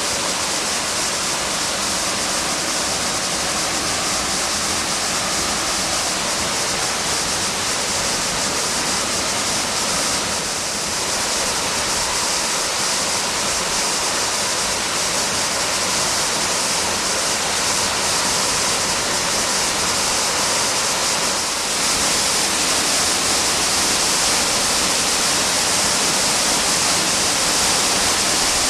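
Horsetail Falls, a waterfall, giving a steady rush of falling water, with slight shifts in level about ten and twenty-two seconds in.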